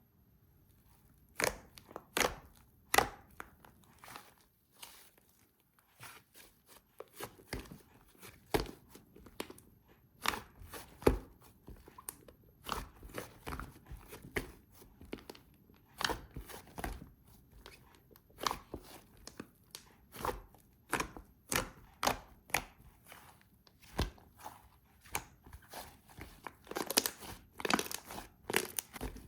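Fluffy slime being squished, pressed and stretched by hand, giving off irregular sticky clicks and little air pops, sparse at first and coming thicker and louder near the end.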